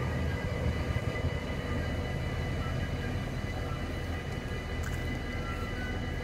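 Low, steady rumble of a LINT41 diesel multiple unit running on after passing the level crossing.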